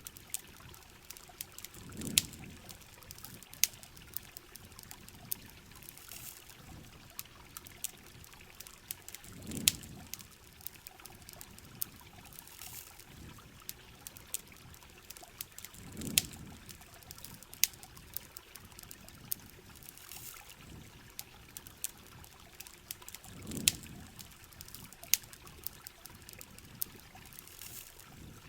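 Steady rain with water pouring and trickling, over the sharp, irregular crackles and pops of a campfire. A low whoosh swells and fades about every seven seconds.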